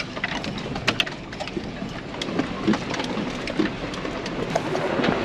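Tyres crunching over a gravel and rock trail, a dense crackle of small sharp cracks over a low rumble.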